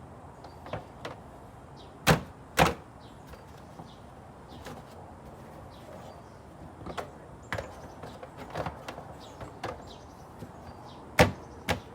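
Sharp clunks and knocks from things being handled: two loud clunks about two seconds in, scattered lighter knocks, then two more loud clunks near the end.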